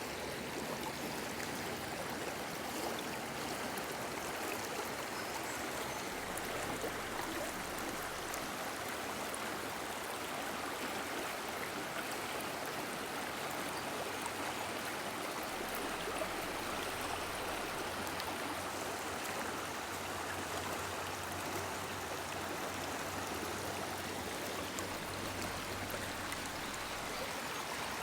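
Woodland river water running steadily, an even, unbroken rush of flowing water.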